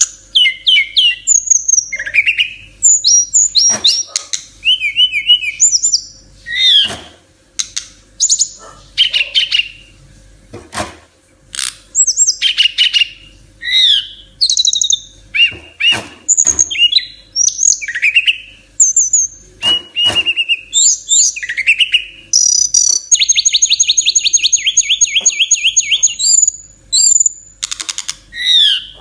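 SRDC Bali songbird singing continuously in a varied, rapid-fire song: short whistled phrases and sharp clicking notes follow one after another. About two thirds of the way through, a fast rattling trill of repeated notes runs for about three seconds.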